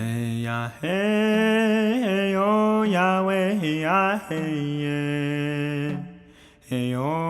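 A voice chanting in long, held notes that slide up and down between phrases, with brief breaks between phrases.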